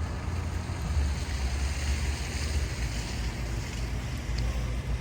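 Steady low rumble with an even hiss over it: outdoor ambience with wind on the microphone.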